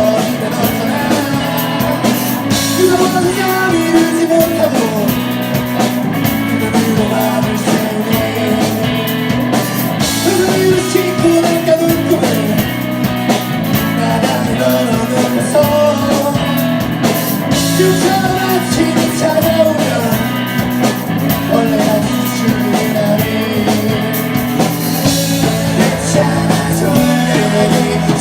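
A rock band playing live, with two electric guitars, bass guitar and drum kit under a sung lead vocal.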